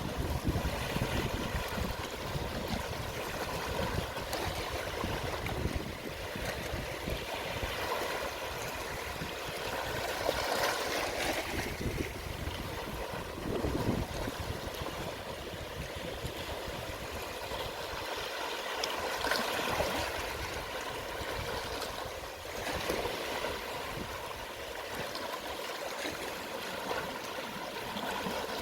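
Gentle sea waves at low tide: water washing and trickling in soft swells every few seconds.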